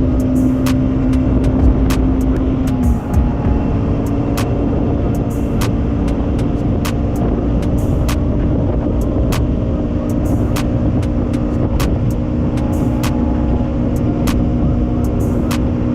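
Bajaj Pulsar NS200's single-cylinder engine running under way while riding, its note dropping about three seconds in and then holding steady, over constant wind and road noise. Frequent short, sharp ticks sound throughout.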